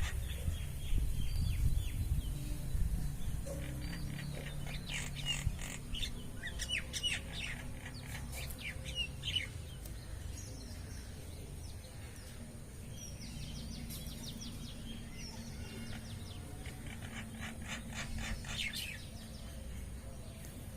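Birds chirping in several short runs of quick, high notes, over a steady low rumble.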